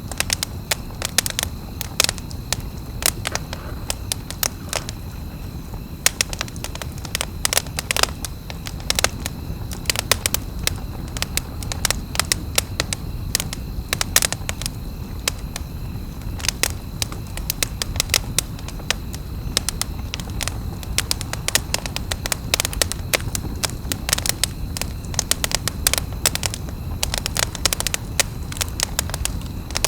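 Wood campfire crackling, with irregular sharp pops and snaps over a steady low rumble of the burning.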